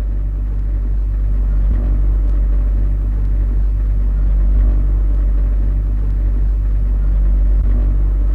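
Recycling truck's engine idling, a loud, steady low rumble.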